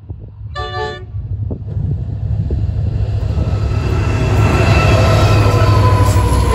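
A short blast on a diesel locomotive's multi-note horn about half a second in, then the low rumble of Pacific National diesel locomotives NR14 and AN3 growing louder as the freight train approaches and draws level, with steady whining tones over it.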